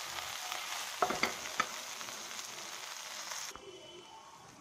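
Besan-coated okra sizzling as it shallow-fries in a little oil on low heat, with a few clicks and scrapes of stirring against the pan about a second in. The sizzle cuts off suddenly about three and a half seconds in, leaving it quieter.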